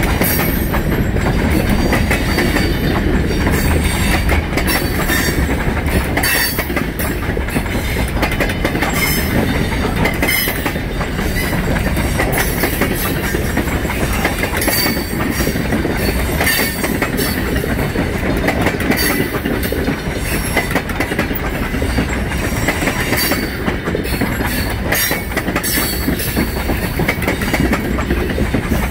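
Freight train's cars rolling past at close range: a steady rumble of steel wheels on rail, broken by irregular clicks and clacks as the wheels cross rail joints.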